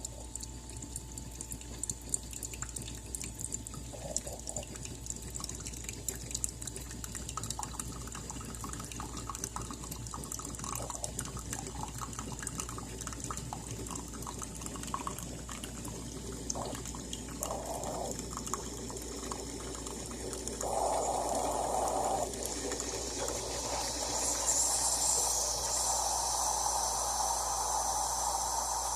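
Espresso machine running hot water through, with liquid trickling and dripping into a cup, along with short spurts. A higher hiss gets louder near the end.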